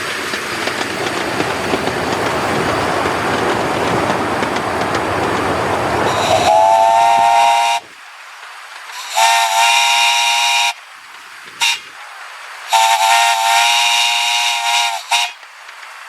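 Grand-scale live steam locomotive: loud hissing steam and train noise, then its chime whistle sounding a chord in four blasts, long, long, short, long, the pattern of a grade-crossing signal.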